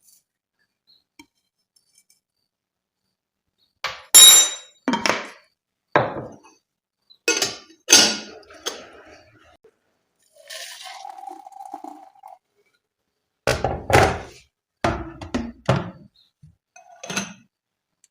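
Dishes and kitchenware clinking and thunking as they are handled and set down, in two runs of knocks that start about four seconds in, with a brief steady hum between them.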